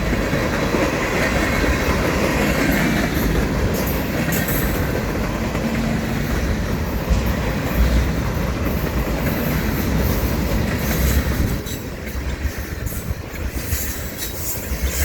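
Freight cars of a long manifest train rolling past close by: steady rumble of steel wheels on rail with repeated clacks as the wheels cross rail joints, a little quieter in the last few seconds.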